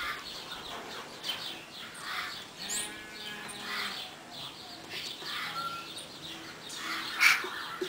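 Pet bird making a string of short, scratchy chirps and calls, one every second or so, with a brief high whistle about three seconds in and a louder call near the end.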